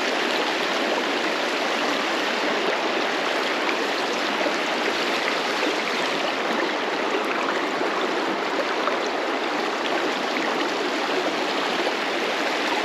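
River water rushing steadily, an even unbroken stream sound.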